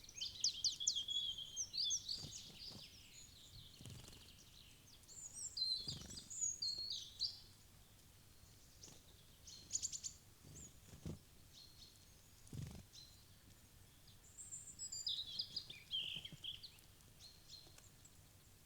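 Small songbirds chirping and twittering in quick high-pitched bursts, in three spells with pauses between, and a few soft low thuds among them.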